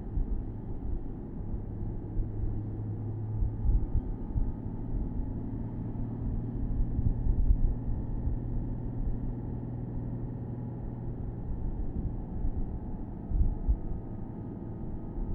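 Porsche Boxster S (987.2) flat-six engine running at a steady cruise, heard from the open-top cabin over low road rumble. The engine note eases a little about two-thirds of the way through.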